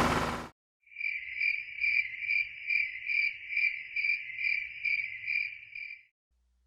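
Crickets sound effect: a clean, high cricket chirp pulsing about twice a second, starting and stopping abruptly out of silence. Just before it, an engine sound cuts off about half a second in.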